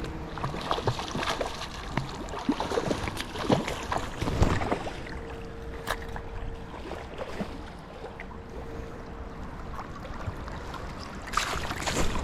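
Water sloshing and splashing, with irregular small knocks and handling noises; the sound gets louder near the end.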